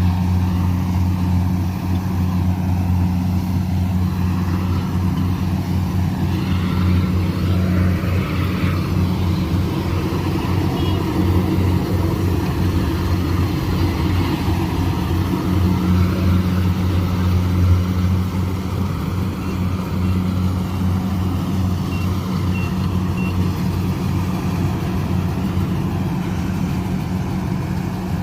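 Farm machine's diesel engine running steadily at constant speed, a deep even drone with no revving.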